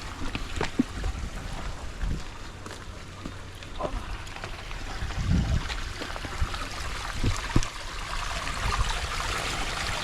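Water trickling and running in a shallow stream, a steady hiss, with wind rumbling on the microphone now and then and a few light clicks.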